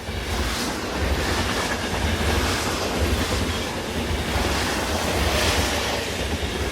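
A train running on rails: a steady rumble with wheel noise on the track. It fades out near the end.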